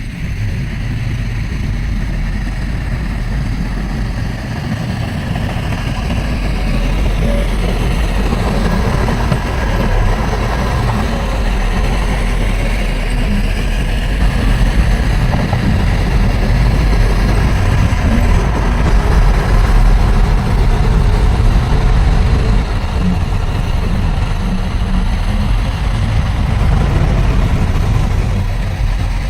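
Heavy diesel engine of earthmoving machinery running steadily, growing louder through the middle as the machine works harder or comes closer, then easing a little near the end.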